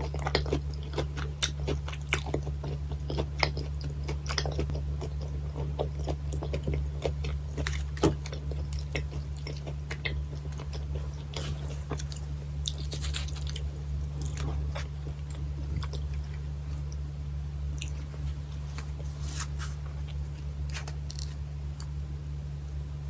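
Close-miked chewing and biting of bone-in sliced gizzard shad sashimi: many small crisp clicks, thickest in the first several seconds and sparser later. A steady low hum runs underneath.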